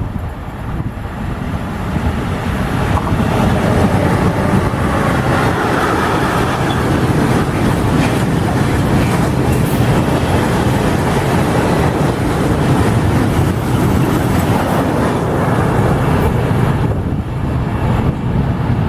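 A train passing close by: a loud, steady rumble of wheels on rails that builds over the first few seconds and then holds.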